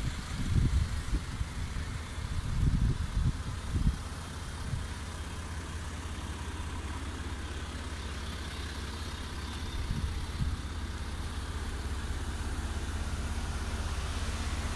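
Cars standing in a queue with engines idling, a steady low hum. Irregular low rumbles on the microphone in the first four seconds.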